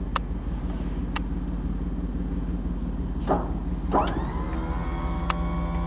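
Two sharp clicks over a steady low hum. About four seconds in, the electric hydraulic pump motor of a Tommy Gate liftgate starts with a rising whine and settles into a steady run as the platform lifts.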